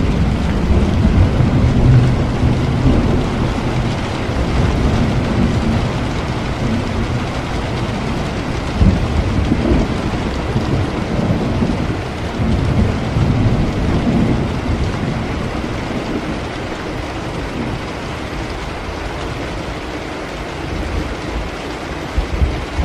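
Steady heavy rain with thunder rumbling low. The rumble is strongest in the first half, fades away, and a new rumble starts near the end.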